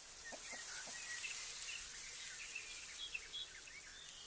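Faint outdoor ambience: scattered short bird chirps over a steady hiss, with a couple of chicken clucks right at the start.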